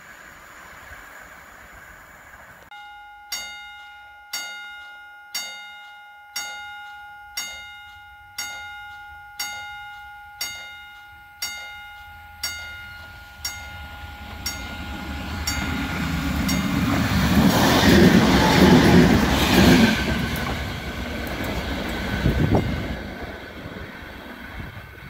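A railway warning bell strikes about once a second, each strike ringing and fading. Then a train approaches and passes with a rising rumble that is loudest in the second half and eases off near the end.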